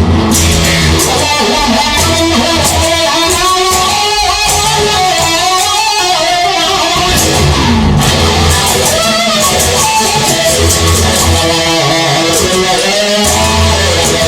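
Rock music without vocals: an electric guitar plays a bending lead line over strummed rhythm guitar, bass and drums.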